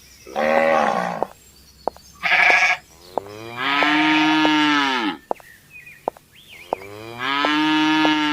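Farm animals calling: four separate calls, a short one, a higher shorter one, then two long drawn-out lowing calls like cattle mooing.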